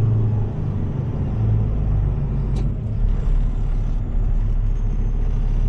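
Heavy rotator tow truck's engine running with a steady low rumble, easing slightly after about two seconds. A single sharp click about two and a half seconds in.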